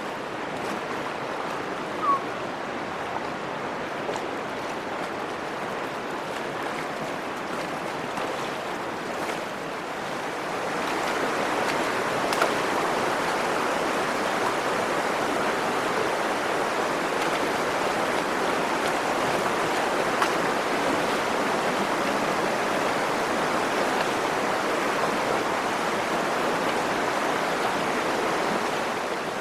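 Virgin River water flowing, a steady wash of river noise that grows louder about ten seconds in.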